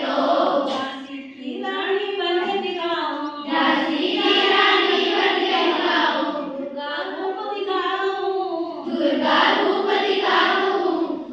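A group of children singing together in chorus, a repetitive folk-style song.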